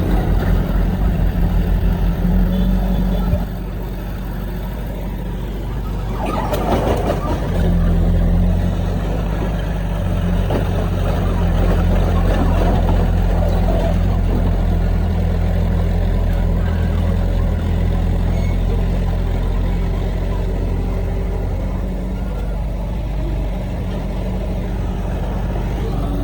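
Heavy diesel earthmoving machinery running steadily, with a deep engine hum. The engine drops back about three and a half seconds in, a short rushing noise follows around six seconds in, and the engine comes up under load again soon after.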